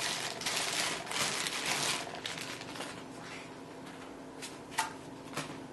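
Plastic packaging crinkling and rustling as accessory pieces are handled and unwrapped, busiest in the first two seconds, then a few light clicks and taps near the end.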